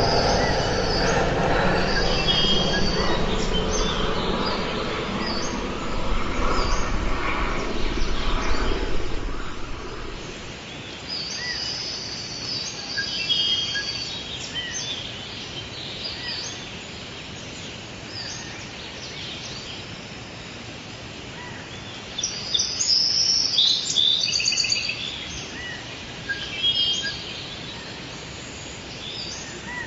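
Small songbirds chirping, short high repeated calls that come in clusters, busiest around halfway and again near the end. For the first ten seconds a low mechanical rumble sits under them, then fades away.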